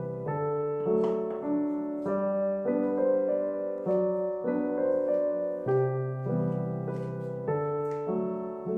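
Background piano music, gentle and at a moderate tempo, with sustained chords and a melody.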